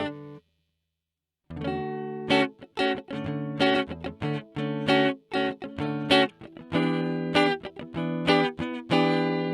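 Ibanez RG350M electric guitar played on a clean tone: a short note, a pause of about a second, then a run of picked notes and ringing chords.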